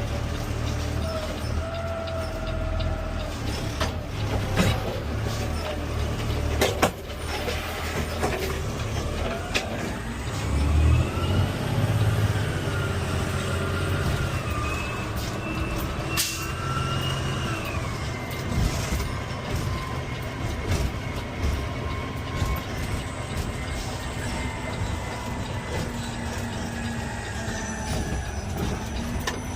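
CNG Peterbilt 520 automated side-loader garbage truck running, heard from the driver's seat: a low engine rumble with rattles and knocks, and a whine that rises from about nine seconds in and then holds steady.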